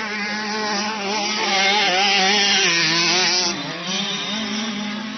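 Motocross bike engine running at a fairly steady pitch with small rises and falls in revs, louder for a couple of seconds before dropping back.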